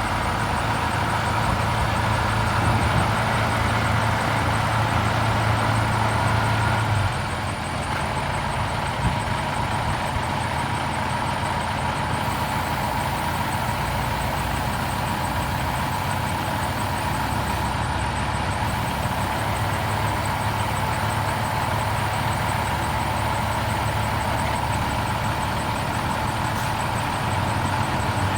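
The diesel engine of a 1995 International 8100 tandem-axle truck idling steadily, its low note easing slightly about seven seconds in and firming up again near the end.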